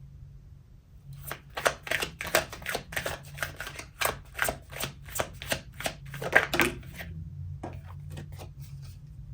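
Tarot cards being shuffled by hand: a quick run of sharp card clicks starting about a second in and stopping around seven seconds, then a few scattered taps.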